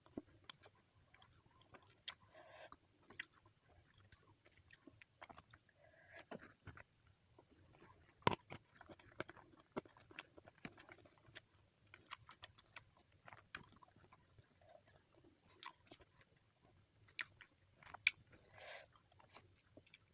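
A person eating close to the microphone: soft chewing with sharp crunchy bites scattered through. The loudest crunches come a little before the middle and near the end.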